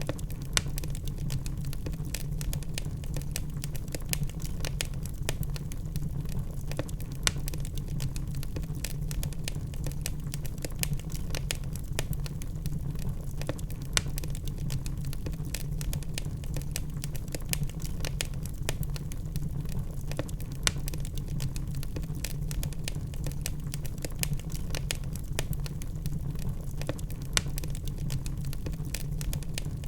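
Wood fire of burning logs in a fireplace, crackling with many small quick snaps over a steady low rumble, and a louder pop every several seconds.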